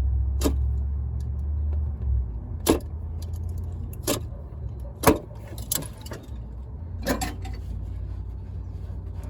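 Sharp metallic clinks of hand tools and parts knocked together during engine-bay work, about six in all, over a low steady rumble that eases after about two seconds.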